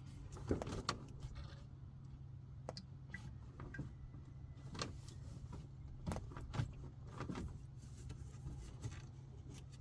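A few scattered light knocks and clicks, as of hands handling parts, over a steady low hum.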